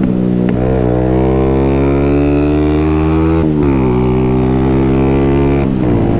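125cc motorcycle engine pulling under way, its note rising slowly and dropping sharply twice, about halfway through and near the end, as the rider changes up a gear.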